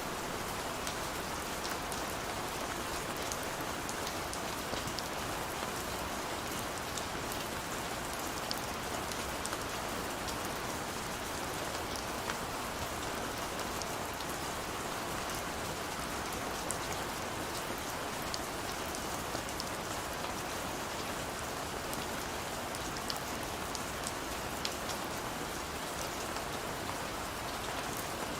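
Steady rain falling on hard surfaces, a constant hiss dotted with brief ticks of individual drops.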